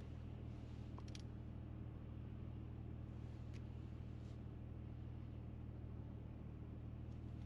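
Nissan Fairlady Z's V6 engine idling steadily through an aftermarket muffler, a low even hum.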